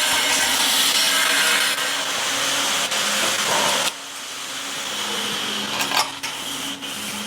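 A power tool running steadily and cutting off about four seconds in, followed by a few light clicks and knocks.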